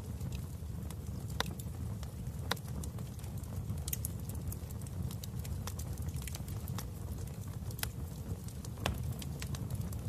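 Fire burning in a fireplace, crackling: a steady low rumble with irregular sharp pops and snaps.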